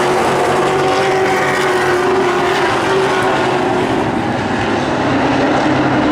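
Race truck engines running on the track, a steady mix of engine notes whose pitch drifts slowly up and down.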